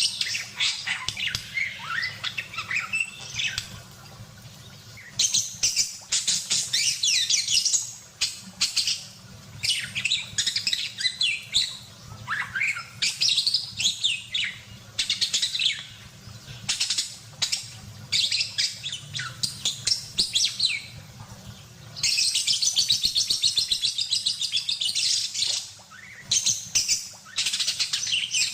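Budgerigar chattering and warbling in long, rapid bursts of chirps and trills, broken by short pauses of a second or so.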